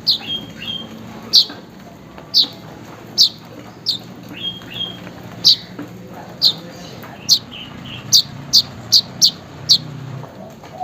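Weaver bird (manyar) calling: short, sharp, high chirps that drop in pitch, about one a second, coming faster near the end, with a few softer short notes between them. A low steady hum underneath stops shortly before the end.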